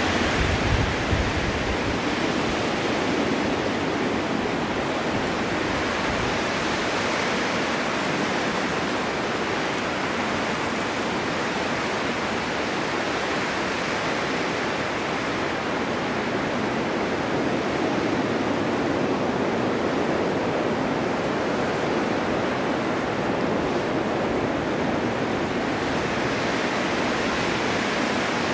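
Snowstorm wind blowing steadily, with a low rumble about a second in and slow swells and easings over several seconds.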